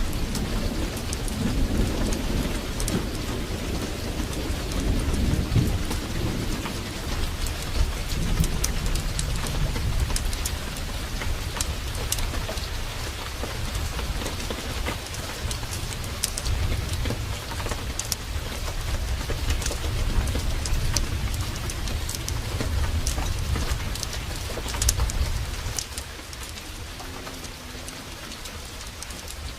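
Heavy downpour with low rolling thunder rumbling under it, and scattered sharp crackles and ticks on top. Near the end the thunder fades and the rain goes on more quietly.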